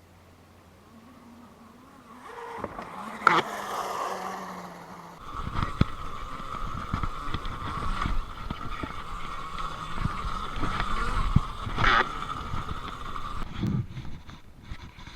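Electric dirt bike being ridden on a dirt track: the motor's steady high whine over rumble and rattling from the bike going over the dirt, with two sharp knocks, a few seconds in and near the end. The first couple of seconds are quiet.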